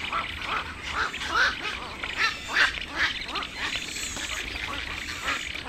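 Birds calling: a busy run of short, repeated calls, several a second and some overlapping, loudest around the middle, over a steady background hiss.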